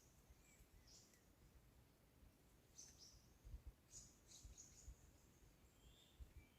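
Faint, high-pitched songbird chirps: a short call about a second in, another near three seconds, a quick run of several between four and five seconds, and a lower call near the end, over a faint low rumble.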